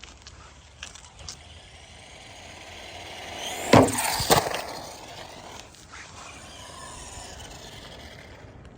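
Small electric RC monster truck driving up with a rising whine, then two hard knocks about half a second apart near the middle as it hits and lands, followed by lighter running and whine.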